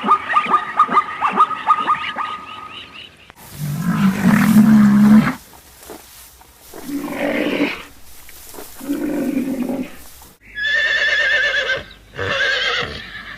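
A string of animal calls from different animals: a fast run of short yips for about the first three seconds, then a long low call, two shorter calls, and two wavering horse whinnies near the end.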